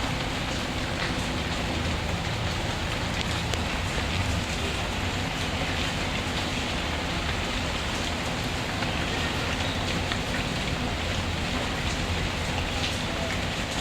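Steady rain falling, an even, continuous patter with faint scattered ticks and a low rumble underneath.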